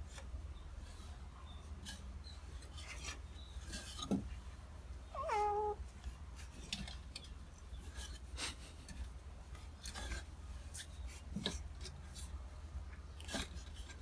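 A domestic cat meows once, a short call about five seconds in, among scattered light scratching and rubbing sounds.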